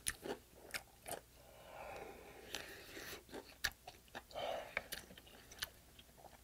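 Close-up mouth sounds of a person chewing a mouthful of rice soaked in broth: soft wet chewing with many sharp, irregular clicks of the lips and tongue.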